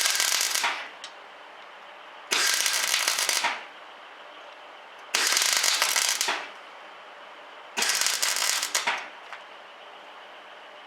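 Semi-automatic (MIG) welder laying tack welds on a steel patch plate on a Suzuki Jimny JB23's bulkhead: four short crackling bursts, each about a second long and a couple of seconds apart.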